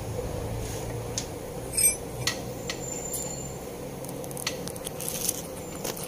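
Hand tools and metal parts clinking and tapping: scattered sharp clicks, with one ringing metallic clink a little under two seconds in, over a steady low hum.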